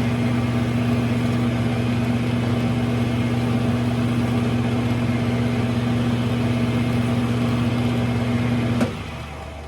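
Smithy lathe's electric motor running with a steady hum, switched off with a click near the end, after which the hum drops away.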